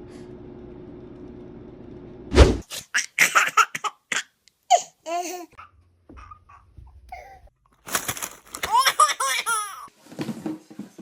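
A steady low hum, cut off about two and a half seconds in by a sudden loud short burst, followed by a baby laughing in repeated bursts.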